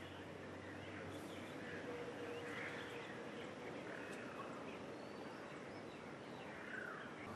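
Faint outdoor ambience: a steady hiss of background noise with scattered short bird chirps.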